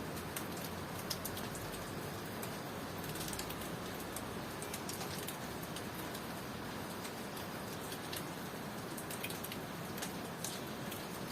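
Steady rainfall with scattered sharp drops ticking on a surface.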